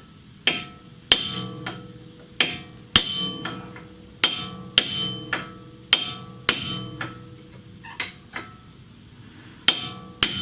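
Hand hammer striking a wheel stud in a minivan's wheel hub, about fifteen irregular metal-on-metal blows, each ringing briefly afterwards.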